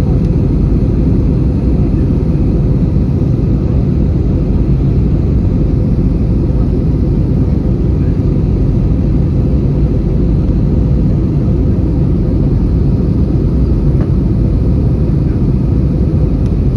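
Steady cabin roar inside an Airbus A320 in flight: engine and airflow noise, strongest in the low end, with a faint steady hum running through it.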